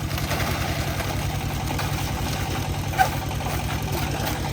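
Concrete mixer's engine running steadily with an even low chugging beat, with one short sharp knock about three seconds in.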